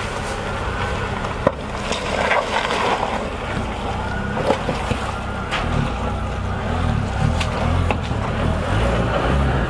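Lada Niva Travel's 1.7-litre eight-valve four-cylinder engine running steadily as the car crawls over rough off-road ground, with a few sharp knocks.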